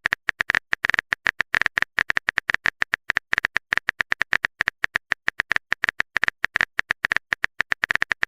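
Typing sound effect: a fast, slightly uneven run of short clicks, about eight to ten a second.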